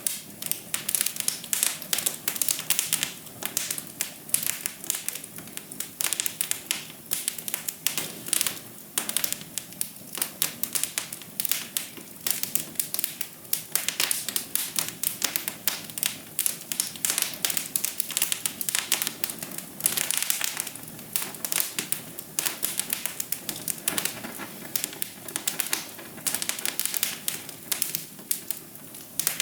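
Fire in a fireplace crackling, with a thick run of irregular small pops and snaps over a soft steady hiss.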